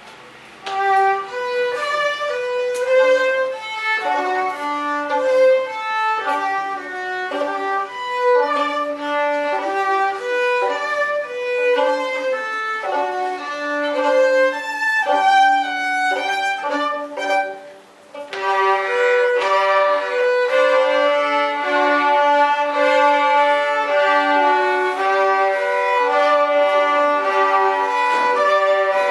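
Violin music: a bowed melody of held notes. About eighteen seconds in it drops away briefly, then comes back fuller.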